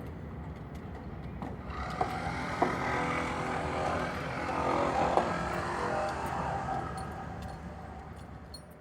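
Motor vehicle traffic noise, swelling from about two seconds in to a peak around five seconds and then fading away, over a steady low rumble.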